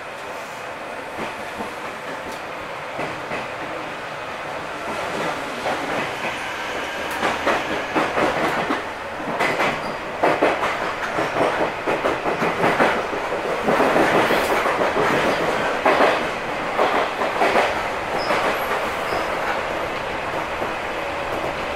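Seibu 2000 series electric train, set 2454F, running along the track. Its wheels clatter over the rail joints: steady at first, the clatter grows denser and louder from about five seconds in, peaks through the middle, then settles to a smoother run near the end.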